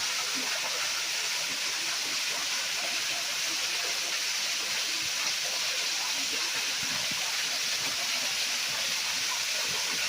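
Waterfall rushing steadily: a constant hiss of falling water.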